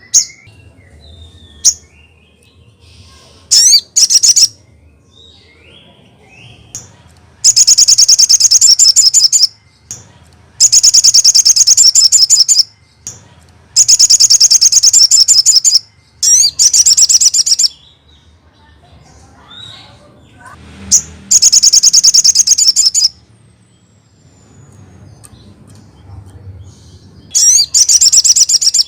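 Recorded song of a sogon, a songbird kept by Indonesian bird fanciers, played as a training track: loud bursts of rapid, high, rattling chirps, each about one to two seconds long, repeated about seven times with short pauses between.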